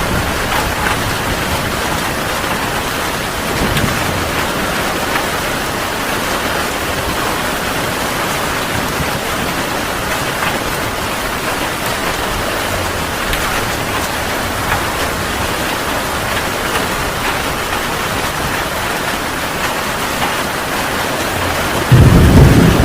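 Heavy rain falling steadily in an even hiss. Near the end a loud, low thunder rumble starts abruptly.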